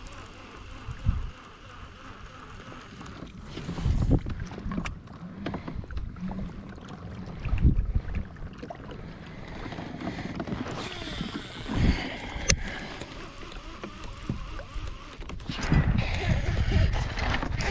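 A fishing kayak on the water: irregular low knocks and bumps on the hull as the angler moves and works, over a haze of water and air noise, with one sharp click about twelve seconds in.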